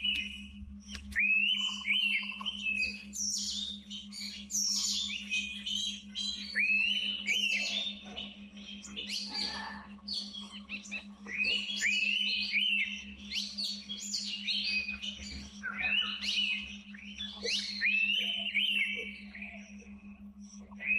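Indian pitta giving clear whistles every few seconds, each sliding up and then holding, among quick high chirps and twitters of other birds.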